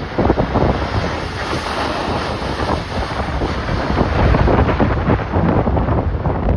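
Strong gale-force wind buffeting the microphone, a loud rushing noise that gusts up and down unevenly.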